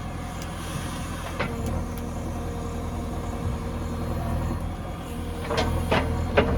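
Diesel engine of a JCB 3DX backhoe loader running steadily, with a few short clanks or rattles, one early and a cluster near the end.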